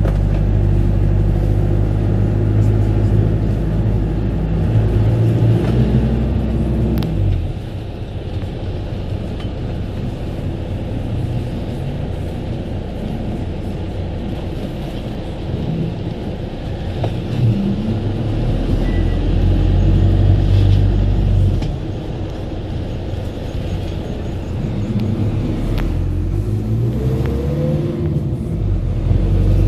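Car driving: a steady run of engine and road noise whose engine note shifts several times. It drops in level at about seven seconds and again about twenty-two seconds in.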